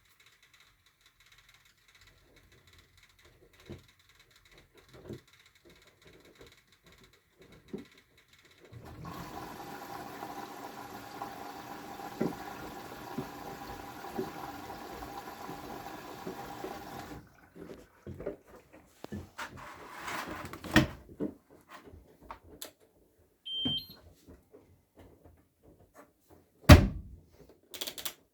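Siemens WM14VG93 front-loading washing machine at the start of a wash: a few faint clicks, then water rushing in through the inlet for about eight seconds before cutting off sharply. Scattered clicks and knocks follow, with one loud thump near the end.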